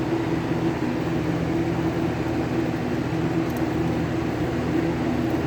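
Steady machine hum with a few held low tones, unchanging throughout.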